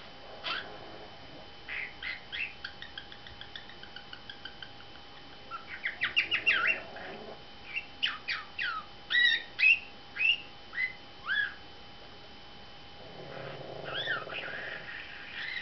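Pet budgerigar chirping and chattering: strings of short chirps and quick whistled sweeps, busiest in the middle, a short lull, then scratchy chatter again near the end.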